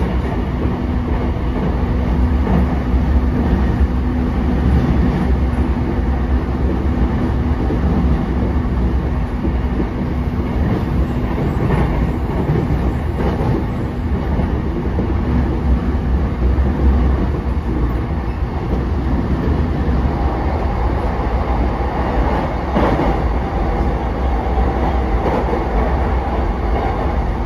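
Running sound inside a JR East E233-5000 series electric train car at speed: a steady low rumble of wheels on rail. A steady hum runs under it for most of the stretch and gives way to a higher tone near the end.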